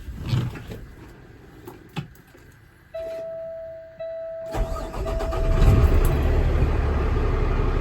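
A few knocks, then a steady dash warning buzzer sounds as the ignition is switched on, and about four and a half seconds in the Kenworth T370's PACCAR PX-8 diesel engine cranks, catches and settles into a steady idle.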